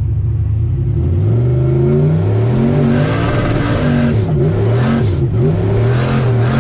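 Turbocharged LS V8 of a Chevy C10 pickup pulling hard under acceleration, heard from inside the cab. The revs climb from about a second in, drop and climb again a few times near the middle, then settle toward the end.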